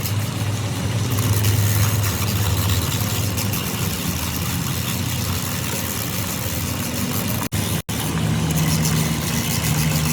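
An engine running steadily with a low hum. It is cut by two split-second dropouts about three quarters of the way through, and after them the hum sits at a higher pitch.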